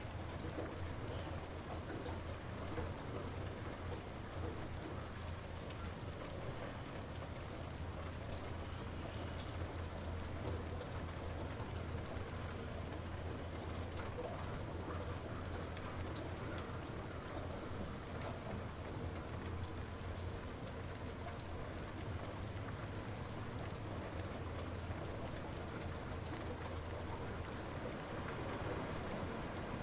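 Light rain falling steadily, an even hiss of drops with scattered small ticks, over a steady low rumble.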